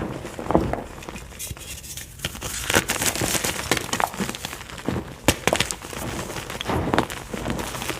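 White gym chalk being crushed: a soft, irregular crunching with scattered sharper crackles and snaps.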